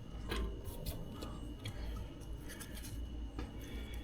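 Light, irregular clicks and taps from handling a circuit board and small tools on a workbench, over a steady low hum.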